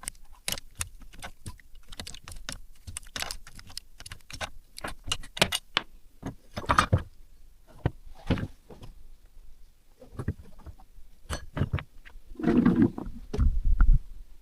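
Small metal parts and hand tools clinking, tapping and rattling in irregular handling, with heavier deeper knocks near the end.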